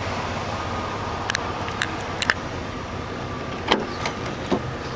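The 2002 Jeep Liberty's 3.7-liter V6 idling steadily. Several short, sharp clicks sound over it, the loudest about two-thirds of the way in.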